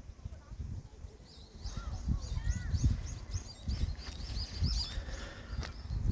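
A small songbird singing a quick run of short, high chirping notes, starting about a second in. Low, irregular thuds and rumble run underneath.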